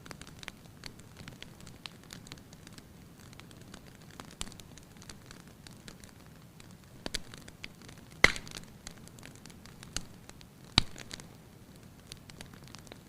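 Wood fire crackling in a fireplace: a steady low hiss of burning with frequent small crackles and a few sharp pops, the loudest about eight seconds in and another a little before eleven seconds.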